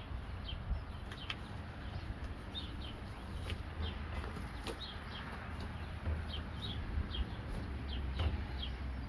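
Birds chirping outdoors: short, high, falling chirps repeating a couple of times a second, over a steady low rumble, with a few sharp clicks.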